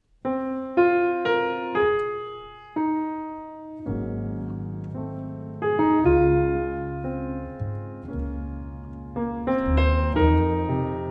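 Slow, gentle jazz ballad on piano and double bass: the piano opens alone with a few struck chords, each left to ring and fade, and a low bass line fills in underneath from about four seconds in.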